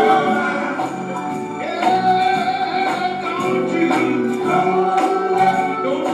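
Gospel music: a choir singing over a steady beat with tambourine.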